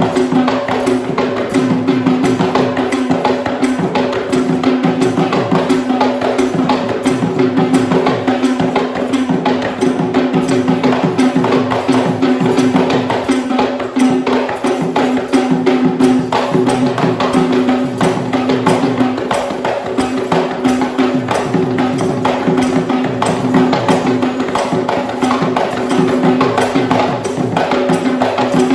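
Traditional Kandyan dance music: fast, dense drumming with jingling percussion, over a steady held note.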